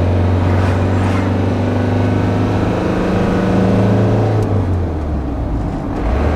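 Motorhome engine running under load while driving, a steady drone that climbs slightly in pitch and then drops back about four and a half seconds in.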